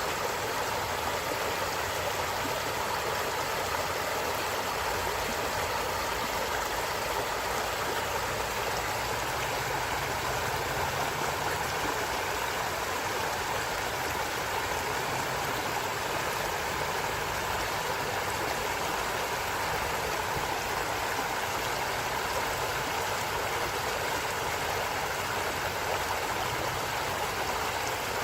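A stream of running water rushing and babbling steadily, with no change in level.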